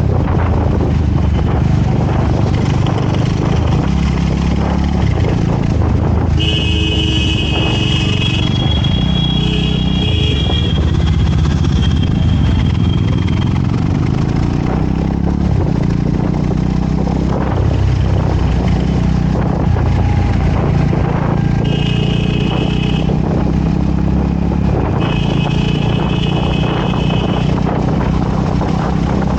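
Motorcycle engine running steadily on the move, its low note shifting in steps as the speed changes. A vehicle horn honks in several blasts between about six and eleven seconds in, and twice more near the end.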